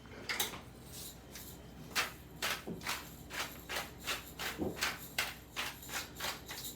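A string of light, irregular clicks and taps, about two or three a second, typical of kitchen utensils knocking against dishes and pans.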